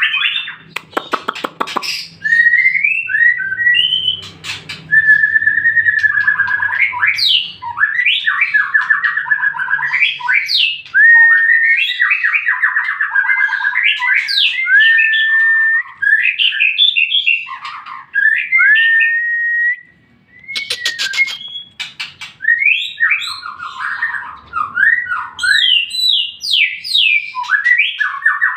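White-rumped shama (murai batu) singing a long, varied song of clear whistled phrases, rapid trills and quick rising sweeps, with a brief pause a little past halfway. It is a lure song meant to set other shamas singing.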